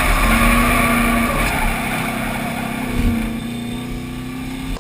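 Drift truck's V8 engine running at a steady pitch, growing gradually quieter over the last couple of seconds.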